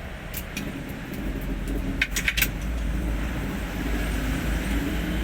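Hino 500 truck's diesel engine running steadily, with a few light clicks or rattles near the start and again about two seconds in.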